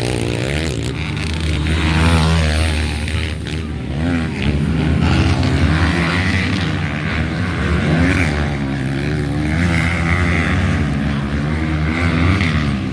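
Motocross motorcycle engines revving hard, their pitch rising and falling over and over.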